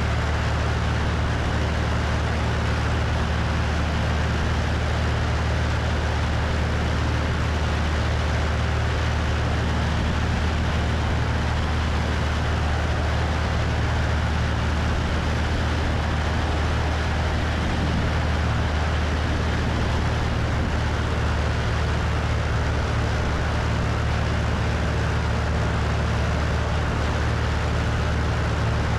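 Cessna 172's piston engine and propeller droning steadily in flight, with wind rushing over a wing-mounted microphone.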